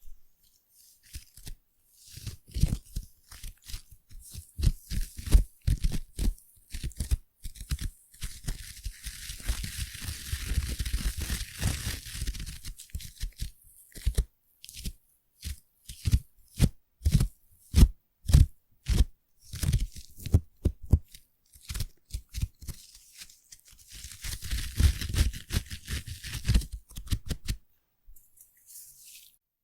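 Foam being squished and pressed close to the microphone: a run of irregular wet squishes with soft low thuds, and two longer stretches of fine popping crackle as the bubbles burst.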